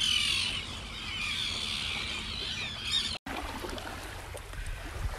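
A flock of gulls calling, a dense chatter of squawking cries, for about three seconds. The sound then cuts out for an instant and is followed by faint steady background noise.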